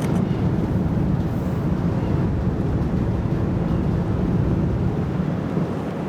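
Steady low rumble of wind on the microphone mixed with the running noise of the Oosado Maru ferry as it comes into port.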